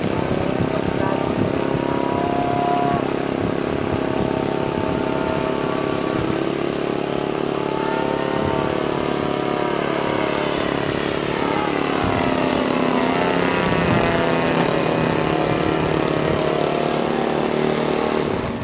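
Radio-controlled model airplane engine running steadily with a propeller, its pitch sweeping as the plane flies past about ten seconds in.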